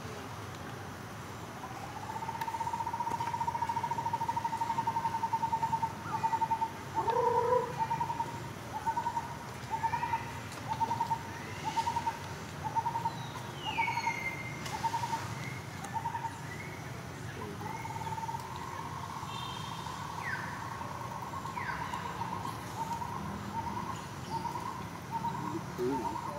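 A bird calling: a long quavering note, then a run of short even notes at about three every two seconds, and the same pattern again. A few brief higher chirps fall in pitch now and then.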